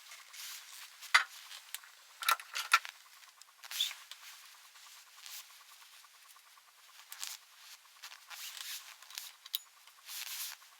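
Scattered sharp clicks and light scraping and rubbing, as of hand work on parts with tools. The three loudest clicks come about a second and two and a half seconds in.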